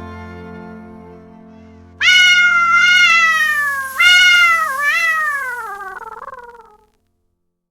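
A held keyboard chord fading out, then two long, loud cat meows about two and four seconds in, each sliding down in pitch.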